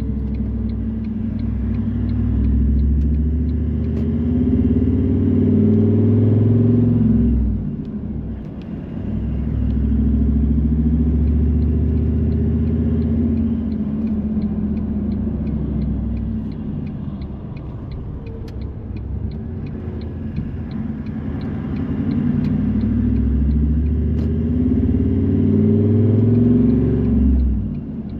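Car engine and road noise while driving: a low drone whose pitch rises steadily as the car accelerates, dropping off sharply about seven seconds in and again near the end before climbing again.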